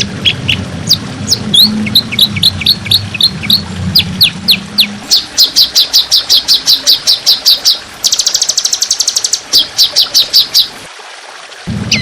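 Songbird song from a bird-song training (masteran) recording: rapid runs of sharp, downward-sliding whistled notes, several a second. About eight seconds in, the notes give way to a very fast buzzy trill. A low hum runs under the first few seconds.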